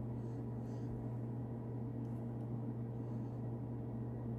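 Steady low hum with an even background hiss, and a couple of faint light handling sounds about half a second in.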